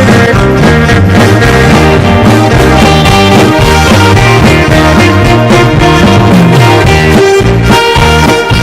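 Live band music: a drum kit keeps a steady beat under electric guitar, electronic keyboard and saxophone in a swing-flavoured Taiwanese pop tune.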